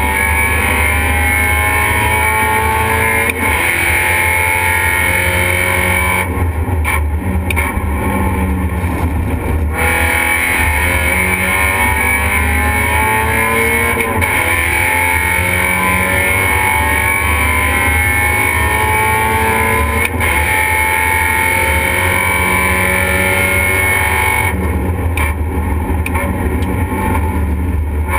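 Race car engine at hard throttle, heard from inside the stripped, caged cabin, its pitch climbing over and over and dropping back as the driver works up and down the gears around the track.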